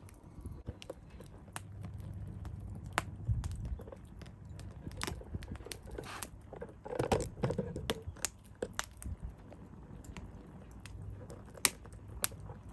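Firewood burning in a tall fire stand, crackling with irregular sharp pops, a little busier around the middle.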